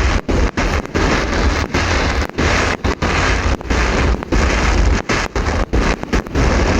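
Fireworks display going off in a loud, dense barrage of bangs and crackle, with a heavy low rumble. The sound drops out briefly many times.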